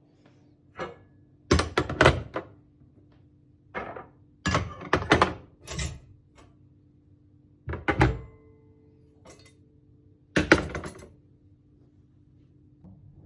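An irregular series of thunks and knocks from household objects being handled and set down, some coming in quick clusters of two or three.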